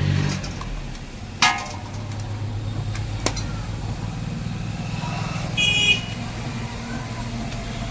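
Royal Enfield Classic 350 engine running, then dropping away in the first half second. After that come two sharp clicks and a short horn toot near six seconds, over a low hum.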